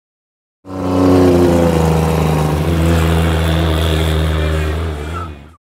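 Drift car's engine running loud at a fairly steady pitch as the car pulls away, starting suddenly less than a second in and cutting off abruptly just before the end.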